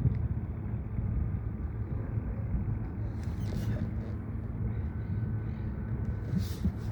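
A boat's motor running with a steady low rumble, with two brief hisses about three and a half and six and a half seconds in.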